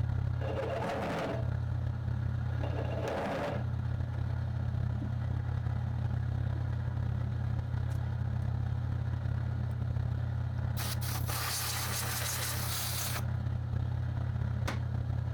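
Electric motor of a machine tool running with a steady low hum. Hissing, rasping noise rises over it briefly about a second in and again around three seconds, then for about two seconds near eleven seconds.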